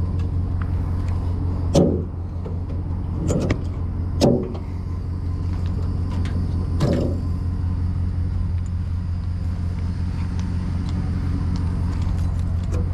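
Vehicle engine idling steadily, with a few short clunks about 2, 3.5, 4.3 and 7 seconds in.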